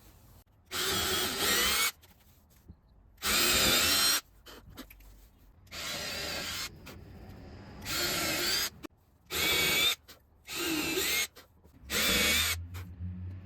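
Power drill boring clearance holes through a wooden sled fence, running in about seven separate bursts of roughly a second each with sudden stops between them.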